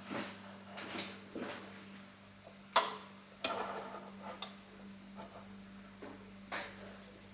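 Irregular light clicks and knocks of a small metal hurricane lantern being handled, about a dozen spread unevenly, the sharpest about three seconds in, over a faint steady hum.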